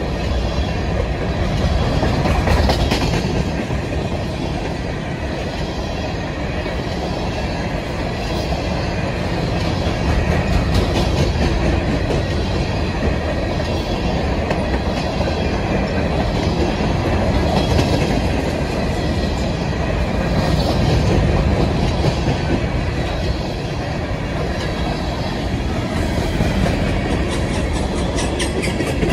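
Covered hopper cars of a CSX grain train rolling past, a steady rumble of steel wheels on rail with repeated clicking as the wheels cross rail joints.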